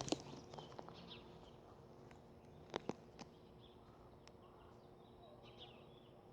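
Near silence broken by a few faint clicks or taps, two of them close together about three seconds in.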